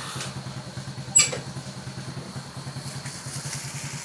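Motorcycle engine running steadily with a fast, even low pulse, and a single sharp click about a second in.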